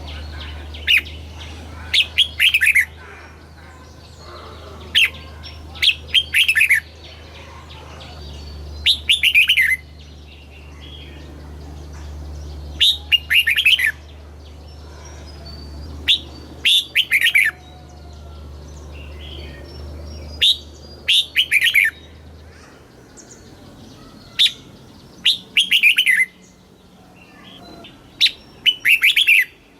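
Red-whiskered bulbul singing: short phrases of quick falling whistled notes, repeated every few seconds. A low steady hum runs underneath and cuts off about three quarters of the way through.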